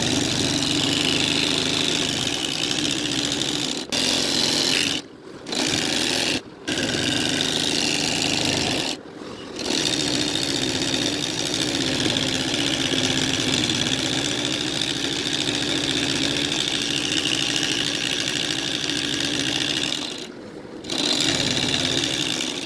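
Embroidery machine stitching at speed, a steady fast mechanical running sound, broken by a few brief pauses.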